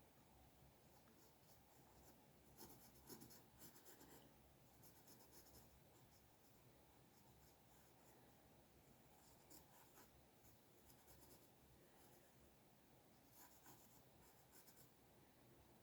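Faint scratching of a drawing tool on paper: clusters of quick, short strokes with brief pauses between them.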